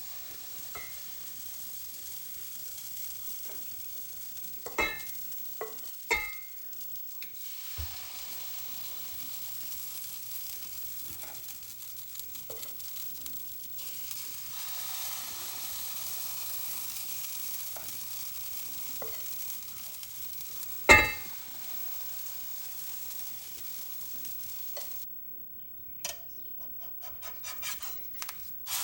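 Food sizzling in a frying pan, a steady hiss, with a few sharp clinks of a utensil against the pan, the loudest about three quarters of the way through. The sizzling stops near the end, followed by a few light clicks.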